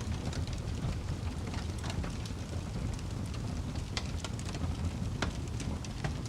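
Wood fire crackling in a fireplace: a steady low roar with frequent irregular snaps and pops.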